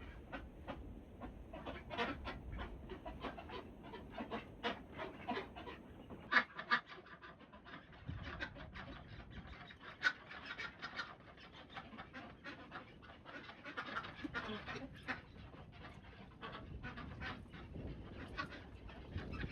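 A dog panting in a long run of short, quick breaths.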